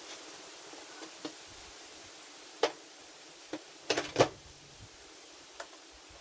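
Hand tools and metal parts clicking and knocking during handlebar fitting on a motorcycle: about six short sharp clicks, the loudest a quick pair about four seconds in, over a steady hiss.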